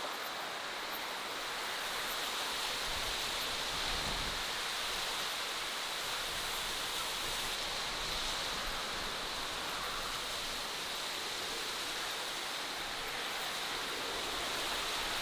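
Steady outdoor nature ambience: an even rushing hiss with no distinct calls or events, a brighter hiss higher up, and a few faint ticks.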